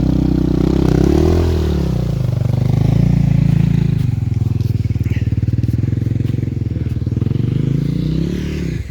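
Off-road motorcycle engine idling and being blipped: the revs rise and fall a few times, settle to a steady idle in the middle, rise once more near the end and then drop sharply.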